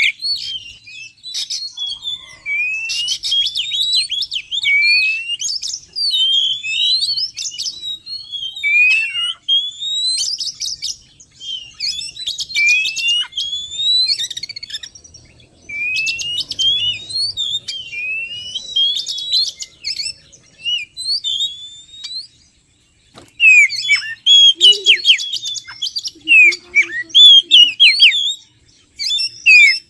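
Oriental magpie-robin singing, in phrases of rising whistled notes mixed with quick stuttering trills and short pauses between them. The notes come denser and choppier near the end.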